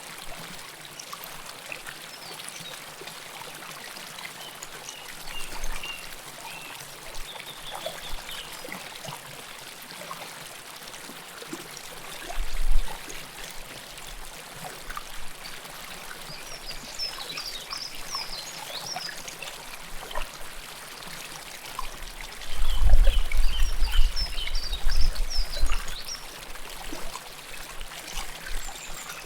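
River water flowing and trickling close up, a steady rushing and burbling. Small birds chirp faintly now and then, and a low rumble swells briefly about twelve seconds in and again more strongly for a few seconds past the middle.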